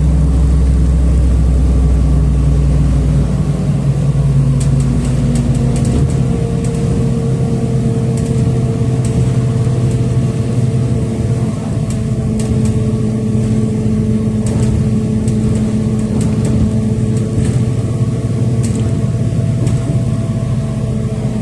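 City bus engine and drivetrain running under way, heard from inside the passenger cabin. The engine note drops about three and a half seconds in and again about six seconds in, like gear changes, then runs steadily, with faint scattered ticks and rattles over it.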